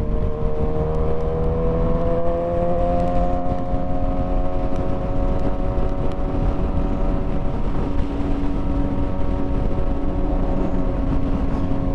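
Motorcycle engine running while under way, its pitch rising slightly over the first few seconds and then holding steady, over a constant low rumble of wind and road noise.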